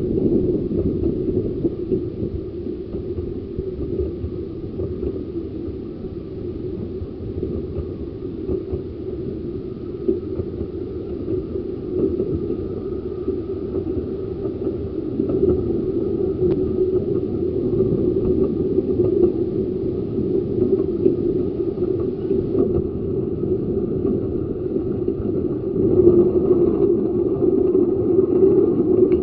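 Ravenglass and Eskdale Railway 15-inch gauge miniature train on the move, heard as a steady rumble of the wheels on the track, swelling slightly near the end.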